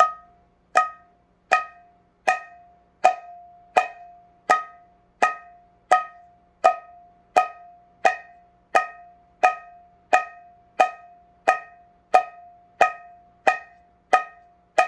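Mridanga sounding the 'nak' (chutki) stroke, a finger snap at the edge of the black gob on the drum head. It is played about twenty times at an even pace, a little over one a second. Each stroke is a sharp crack that rings at one clear pitch and dies away.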